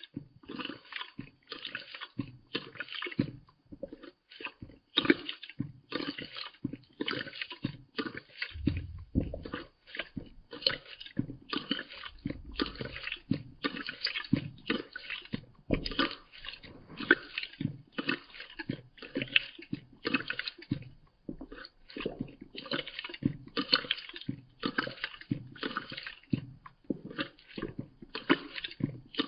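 Cat lapping water in slow motion: slowed, wet laps repeating evenly, about one and a half a second.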